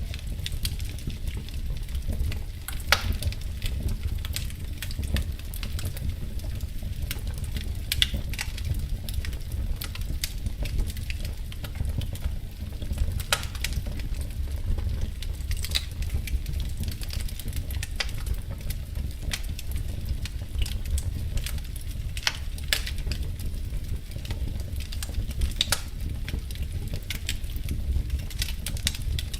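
Wood fire crackling in a fireplace, with irregular sharp pops and snaps over a steady low rumble; a handful of louder pops stand out every few seconds.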